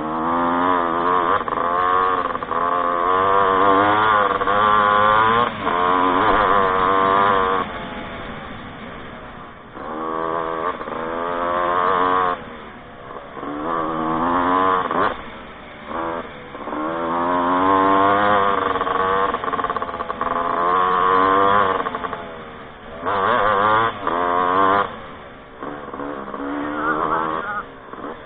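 Off-road motorcycle engine revving up and down as it is ridden, the throttle closed briefly several times before picking up again.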